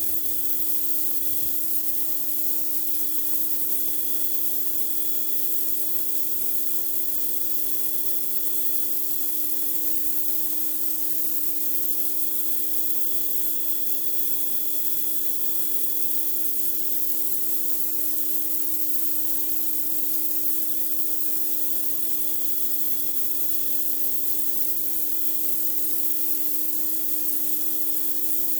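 Pressure washer blasting a concrete driveway: a steady hiss of high-pressure water spray over the machine's even hum.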